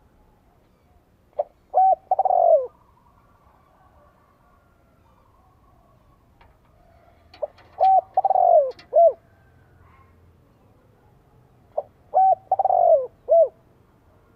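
Spotted dove cooing: three phrases several seconds apart, each a couple of short coos and one longer falling coo, with a few faint clicks during the middle phrase. It is a decoy dove's call, used to stir wild males into answering.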